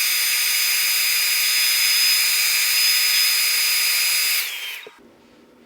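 Handheld hairdryer blowing with a steady hiss and a high motor whine, heating a cracked iPad screen's adhesive to loosen it; it switches off and winds down about four and a half seconds in.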